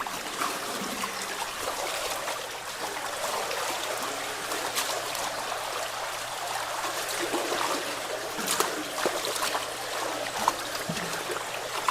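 Water trickling and running steadily through a partly cleared culvert, with a few brief clicks or knocks, the loudest about eight and a half and ten and a half seconds in.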